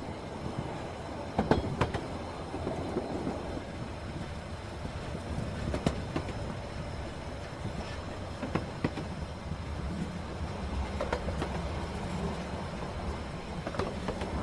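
Electric suburban train running on the rails: a steady low rumble, with sharp clacks from the wheels now and then, several of them close together near the start.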